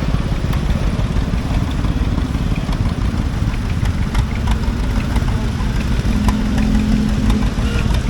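Vintage farm tractor engines running as tractors drive slowly past, a steady low rumble, with a steadier engine tone holding through the last few seconds.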